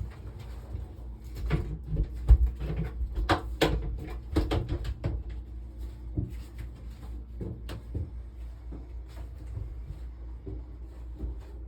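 Cabin doors and locker lids aboard a cruiser yacht being opened and shut: a run of knocks and clunks, thickest in the first five seconds and sparser after, over a low steady hum.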